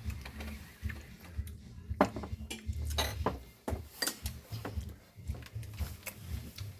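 Cutlery clinking and scraping against plates, with scattered sharp clicks of knives and forks on crockery, the loudest about two seconds in, over a low steady hum.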